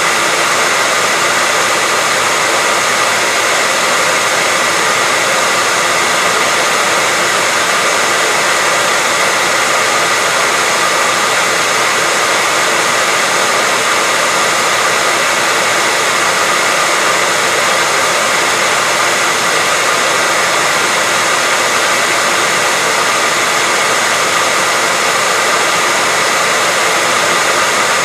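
Hair dryer running steadily: an even rush of blown air with a faint steady whine mixed in, unchanging throughout.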